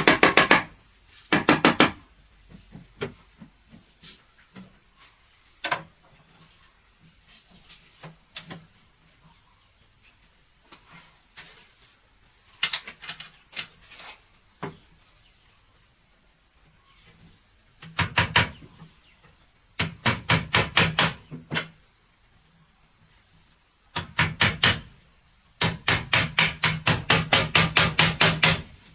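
Hammer striking wood in quick runs of about five blows a second, several runs with pauses between, the longest run near the end. Insects buzz steadily in the background with a high, even tone.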